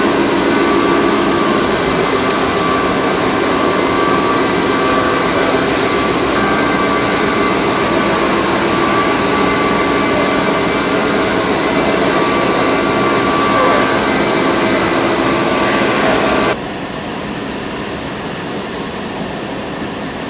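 Steady din of a truck assembly plant floor: machinery and ventilation running with several steady tones, dropping abruptly to a quieter hum about three-quarters of the way through.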